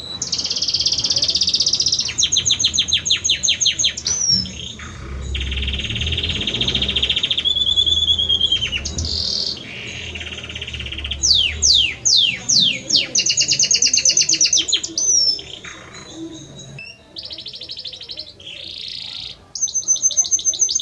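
Male Belgian canary singing its courtship song to a female. The song is a long run of fast high trills and rolls with quick downward-sweeping notes, broken by short pauses, with a quieter spell about two-thirds of the way through.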